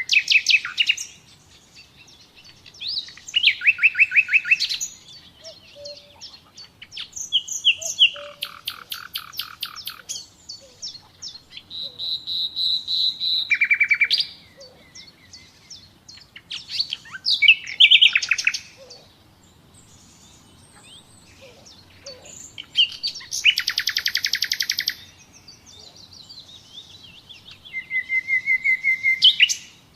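A nightingale singing in separate phrases a second or two long, with short pauses between them. The phrases are made of rapid repeated notes and trills, and about twelve seconds in there is one held whistle that swells in loudness.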